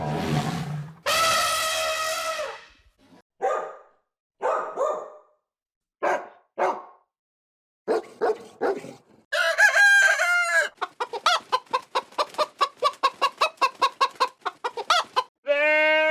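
Farm animal calls: a long pitched call about a second in, then scattered short calls, a loud pitched call near the ten-second mark, and a fast run of short calls at about six a second.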